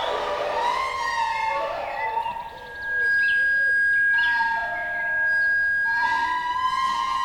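Sound-art piece of layered sustained tones, several gliding up and down in pitch like sirens over a steady high tone, dipping briefly about two and a half seconds in before swelling again.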